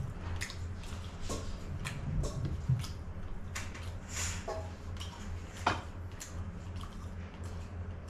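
Wet chewing and lip-smacking of a person eating seafood by hand, with scattered short clicks, over a steady low hum.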